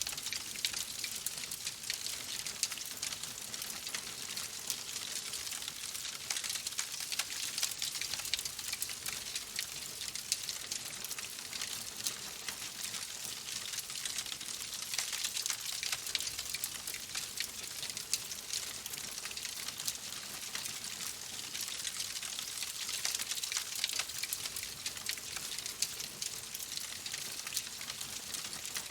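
Wood fire in a fireplace crackling steadily: a dense stream of small pops and ticks over a soft hiss.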